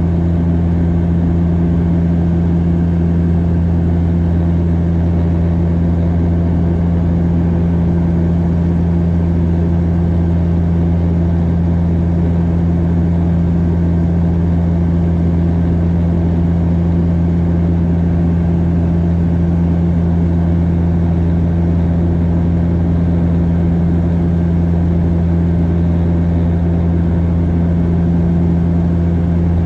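Cabin noise of a Bombardier DHC8-Q400 turboprop in flight: the steady, loud drone of the propellers and engines, a deep even hum with no change in pitch.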